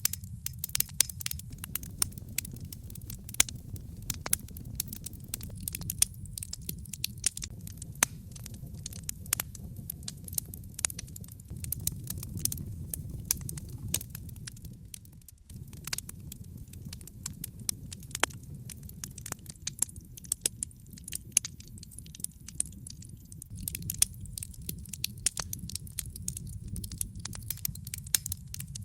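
Wood logs burning in a fireplace, crackling with many irregular sharp pops and snaps over a steady low rumble of the flames, which drops away for a moment about halfway through.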